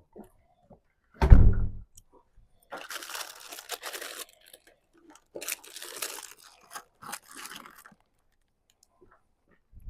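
A dull low thump about a second in, followed by three stretches of crunching and rustling.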